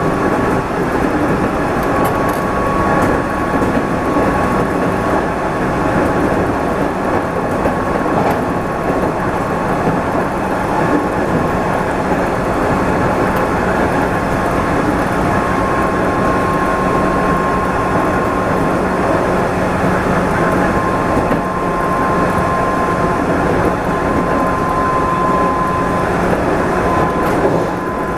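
JR 213 series electric train running at speed, heard from inside the cab: a steady rumble of wheels on rail with a faint, even whine over it.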